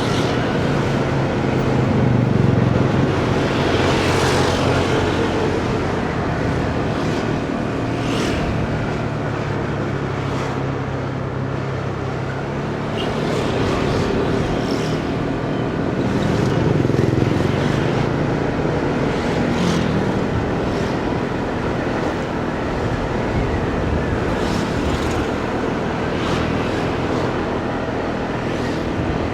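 Motorcycle engine running during a ride through city traffic, its pitch rising and falling several times as the throttle opens and closes, over steady road noise and passing traffic.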